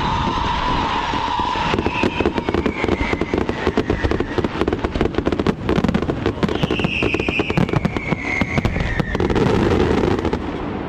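Fireworks going off in a dense, rapid crackling barrage, with a falling whistle twice over the cracks.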